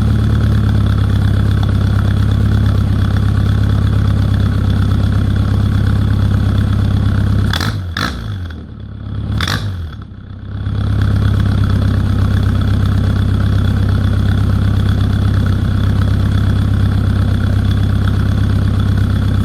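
Rover Mini's A-series four-cylinder engine idling, its exhaust very loud through a Kakimoto aftermarket muffler with no catalytic converter. About eight seconds in the sound briefly drops and wavers with a few sharp clicks, then settles back to a steady idle for roughly the last nine seconds.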